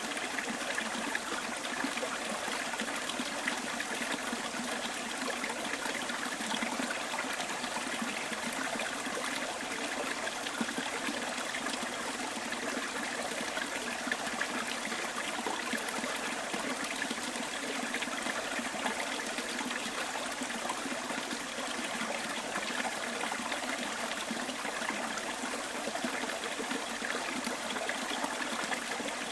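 Small stream trickling and babbling over stones, a steady, even flow with no breaks.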